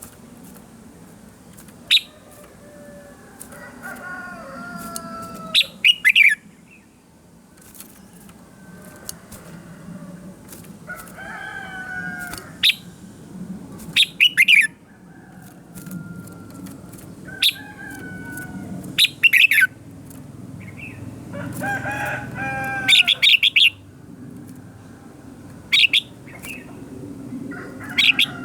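Red-whiskered bulbuls singing short, loud, sharp whistled phrases every few seconds, with roosters crowing about four times among them.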